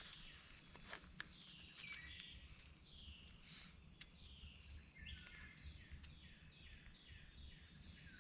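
Faint songbirds calling in woodland: a run of short, falling whistled notes that quickens to about two a second in the second half, over a steady high trill. A few sharp clicks sound about a second in.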